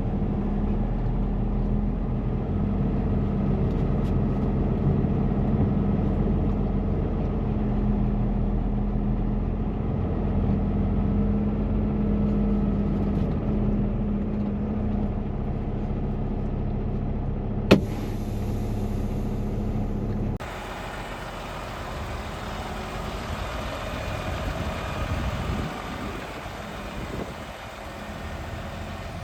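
Truck engine idling steadily, with one sharp click about 18 seconds in. A couple of seconds later the engine sound stops abruptly, leaving a quieter, hissy background.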